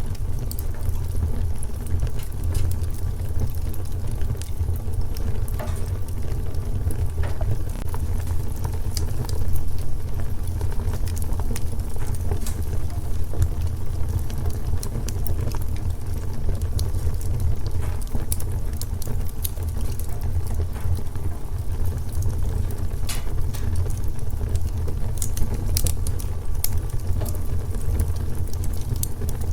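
Wood fire burning in a fireplace, with a steady low rumble of flame and scattered sharp crackles and pops.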